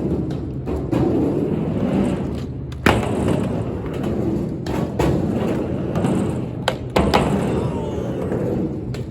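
Skateboard rolling back and forth on a mini ramp, its wheels making a continuous rumble. Sharp knocks of the board or trucks striking the ramp come about three, five and seven seconds in.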